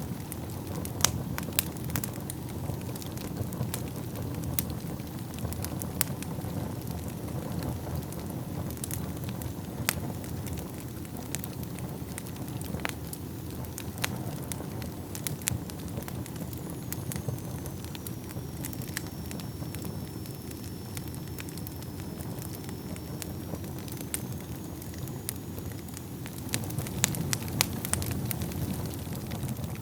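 Wood fire crackling in a fireplace: a steady low rumble of burning with scattered sharp pops and snaps, which come more often near the end. A faint thin high whistle runs through the middle for several seconds.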